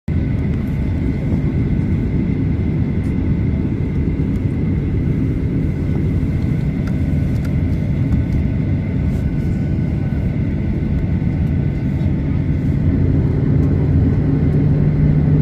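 Jet airliner engines running for takeoff: a loud, steady rumble with a thin high whine, a low hum growing stronger in the last few seconds.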